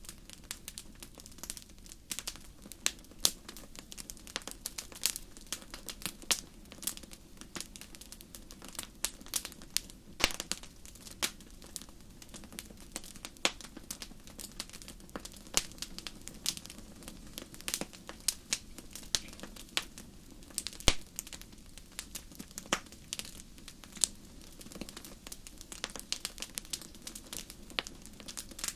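Wood fire crackling, with irregular sharp pops and snaps over a low steady hiss.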